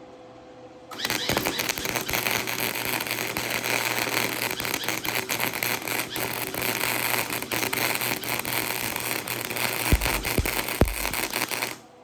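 Wire-feed welder arc crackling and sputtering through one weld about ten seconds long, with a few louder pops near the end, stopping abruptly. The uneven sputter is, to the welder himself, the sound of an amateur's weld.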